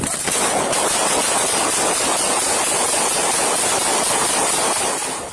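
Steady, even static-like hiss that starts abruptly out of dead silence and fades away near the end.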